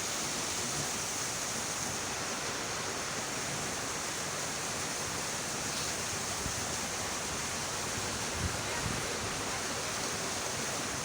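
Steady rushing noise of running water, with a couple of soft low bumps about eight and a half seconds in.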